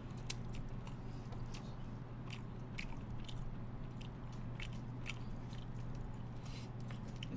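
Close-miked eating: chewing and biting into braised chicken, with many small scattered clicks and smacks over a steady low hum.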